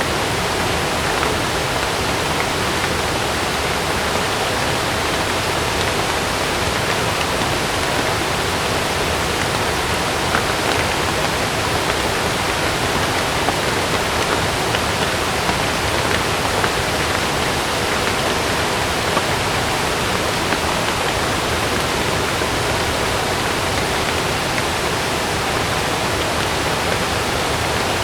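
Heavy rain falling steadily: a dense, even hiss with a few faint ticks of individual drops.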